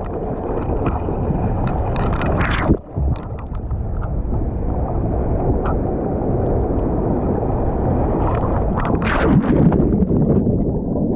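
Surf water rushing and splashing around a kayak, heard through a GoPro with a steady low rumble of water and wind on the microphone. Two louder splashes come about two seconds in and about nine seconds in.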